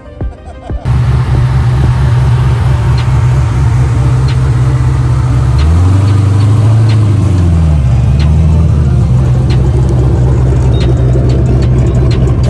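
Car engine running loudly with a deep, steady note; about six seconds in its pitch swells up and back down once, as the car revs or moves off and slows.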